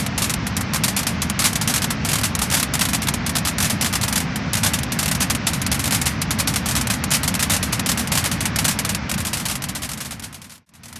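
Wood fire burning, with dense crackling and popping over a steady low rush. Near the end the sound fades out briefly and comes back.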